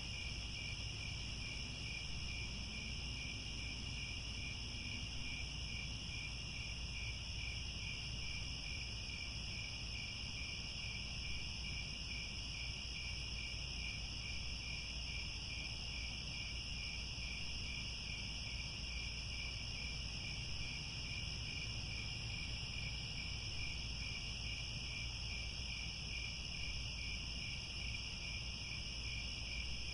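A dense, steady chorus of crickets chirping, several high pitches layered, one of them pulsing in an even rhythm, over a faint low rumble.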